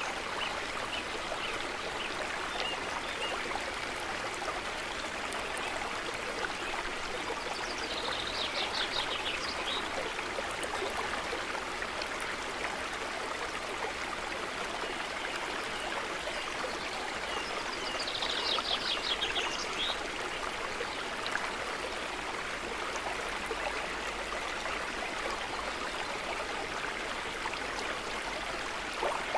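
Forest stream running steadily over rocks, a continuous rushing trickle. A bird gives a short rapid trill twice, about eight seconds in and again near eighteen seconds.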